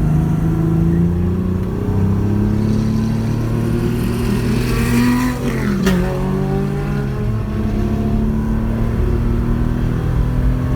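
Porsche 911 rally car's engine pulling under load, its pitch rising for about five seconds, then dropping sharply as for a gear change, with a sharp click about six seconds in. The engine then runs on at a steady pitch.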